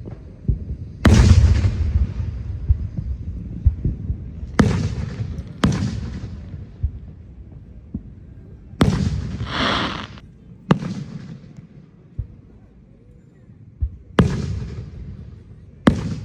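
Fireworks going off: seven sharp bangs spread over about fifteen seconds, each fading in a rumbling echo. One bang about nine seconds in is followed by about a second of hissing crackle.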